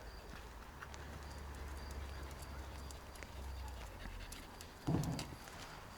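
Dog panting quietly, with a short low sound about five seconds in.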